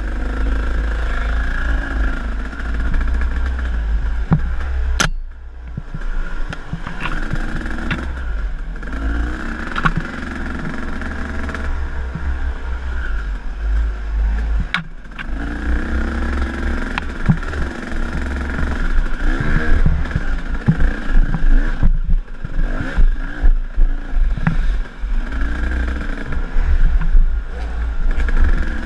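KTM enduro dirt bike engine revving up and easing off again and again as it is ridden along a trail, with brief let-offs about five and fifteen seconds in. Sharp knocks and clatter from the bike over rough ground come through here and there.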